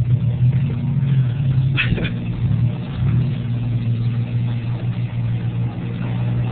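Pickup truck engine running steadily at low revs, with a short sharp sound about two seconds in.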